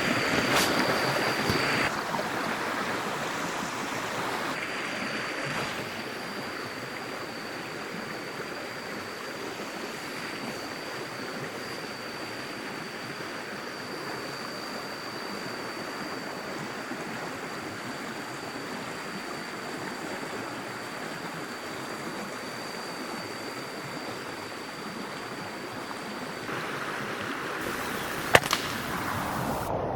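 Stream water running steadily, with a thin, steady high-pitched tone over it for most of the time. There is a sharp click about half a second in and a louder sharp snap near the end.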